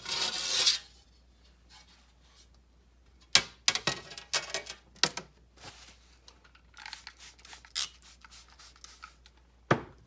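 Refrigerator shelf being turned over and cleaned: scattered sharp knocks as it is handled and set down, with rubbing and short hissing scrubs.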